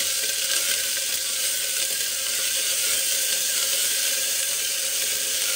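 Chopped onions and ginger-garlic paste sizzling steadily in hot oil in an aluminium pressure cooker, stirred with a spatula, as the paste is fried with the browned onions.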